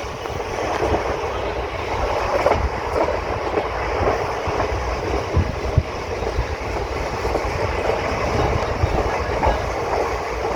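Moving train running along the track: a steady low rumble of wheels on rails with irregular short knocks of the wheels over rail joints.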